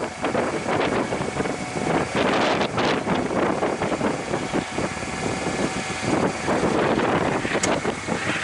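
Freight train rolling past with wheels running on the rails, and wind gusting on the microphone.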